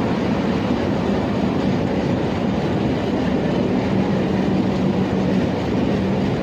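Steady train noise, an even wash of sound with a low hum underneath that grows stronger about five seconds in.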